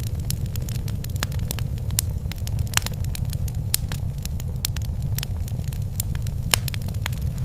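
Wood fire burning in a fireplace: a steady low rumble with irregular sharp crackles and pops, a few louder pops standing out, about three seconds in and again near the end.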